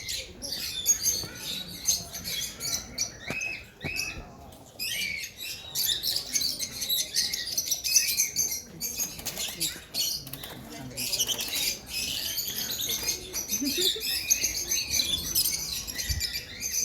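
Many small birds chirping and twittering at once, a dense high-pitched chatter of short calls.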